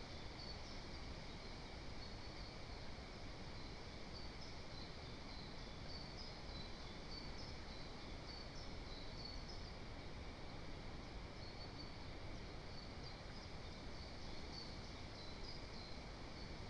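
Forest ambience: a steady faint hiss with short, high chirps of small birds calling over and over.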